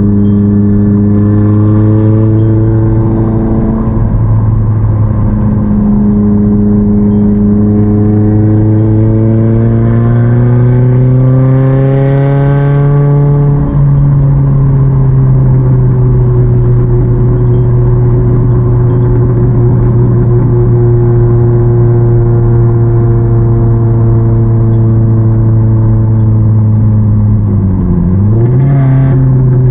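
Exhaust of a 2006 Chevy HHR's 2.4L Ecotec four-cylinder, running through a long tube header, catless downpipe and Cherry Bomb chamber muffler, while driving. The engine pitch climbs under acceleration for several seconds, eases to a steady cruise, then dips briefly and comes back up near the end. The exhaust is still fairly loud, with a deeper tone from the Cherry Bomb muffler.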